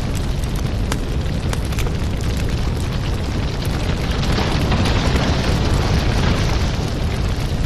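Wood fire in a fireplace burning: a steady low rumble of flames with frequent sharp crackles and pops, swelling a little louder about halfway through.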